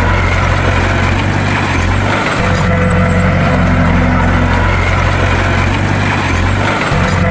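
Bulldozer's diesel engine running steadily, a low drone that dips briefly about two seconds in and again near the end.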